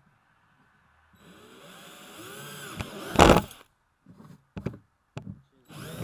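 Power drill pre-drilling a hole through the plastic kayak deck and rivet ring: the motor runs for about two seconds with its pitch rising and falling, loudest about three seconds in, then stops and starts in a few short bursts.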